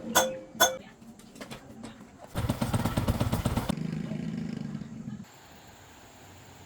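Two sharp metallic clinks, then a small motorcycle engine running for about three seconds, loudest at first and then settling to a steady low hum before cutting off abruptly.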